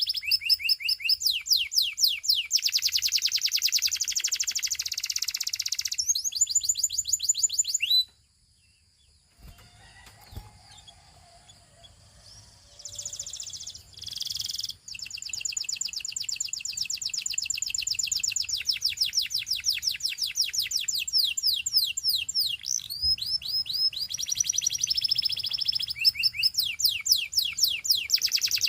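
Russian canary singing long runs of fast repeated trilled notes. The song breaks off about 8 seconds in, a few short notes come a few seconds later, then the rapid trills resume.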